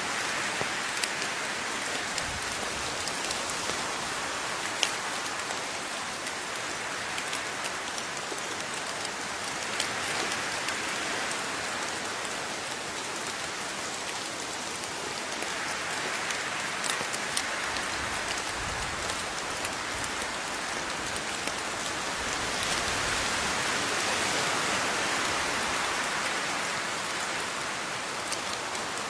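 Steady rainfall with scattered sharper drop ticks, swelling and easing slowly over several seconds.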